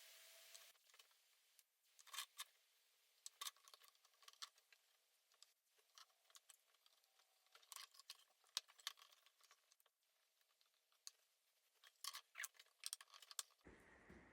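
Small birds pecking at food: sparse, irregular faint clicks and taps, with a few clusters of quicker taps.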